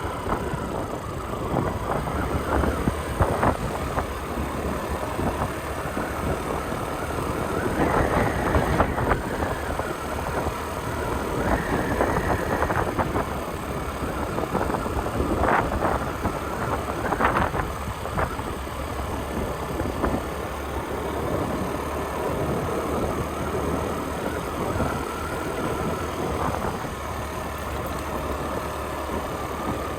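Motorcycle engine running while riding, with wind noise on the microphone; the engine note swells and eases a little a few times.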